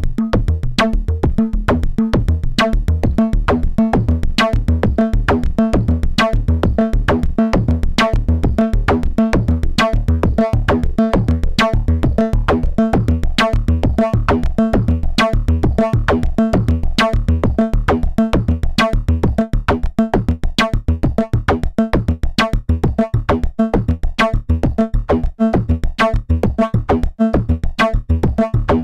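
Modular synthesizer sequence: a Make Noise DPO oscillator stepped through short enveloped notes by a Make Noise René sequencer, shaped by an Ardcore module running as an ADSR envelope generator into a VCA, with delay echoes added. A fast, steady pulse of short low notes.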